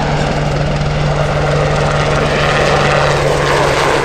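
Westland Sea King HAR.3 helicopter with its main rotor and engines running steadily: a constant low hum over a fast, even rotor pulse.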